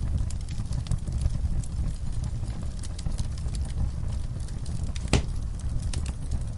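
Wood fire crackling in a fireplace: irregular small snaps and ticks over a steady low rumble of burning, with one louder pop about five seconds in.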